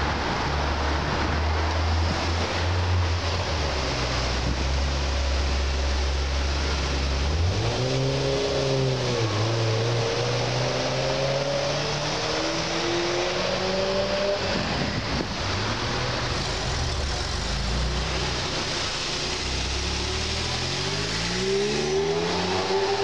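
Sports-car engines in street traffic: a deep steady engine rumble for the first several seconds, then an engine revving up and down about eight seconds in, with engine notes falling away over the next few seconds. Near the end another engine accelerates, its note rising.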